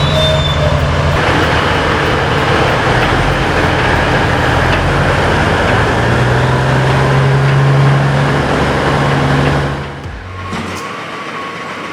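Heavy truck engine running under load with road and tyre noise, a deep steady drone; it drops away noticeably about ten seconds in.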